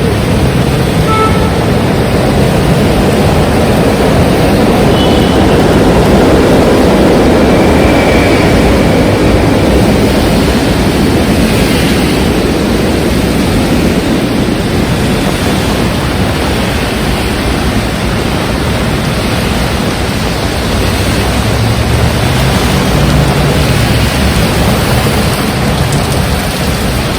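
Heavy rain and strong wind: a loud, steady rushing noise with an uneven low rumble.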